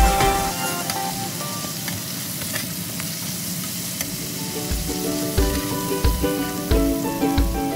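Chicken feet frying in chili sauce in a nonstick wok, sizzling steadily while a spatula stirs and turns them, with faint scrapes and taps. Background music with a beat fades in the first second and comes back about five seconds in.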